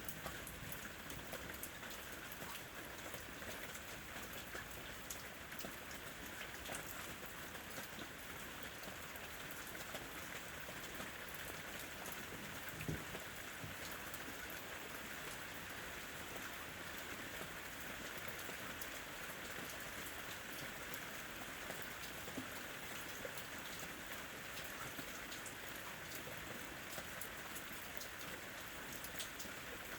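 Steady rain falling, with scattered drops tapping on a surface and one slightly louder tap about thirteen seconds in.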